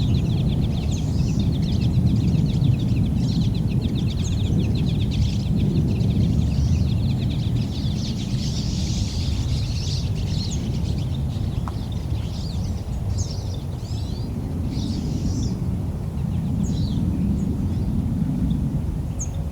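A flock of pine siskins calling and singing: a fast, dense twittering in the first several seconds, then scattered short rising notes. Under it runs the steady low rumble of a passing train.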